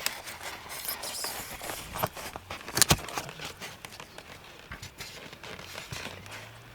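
Scattered knocks and rustling from work on a building site, with one sharp knock about three seconds in.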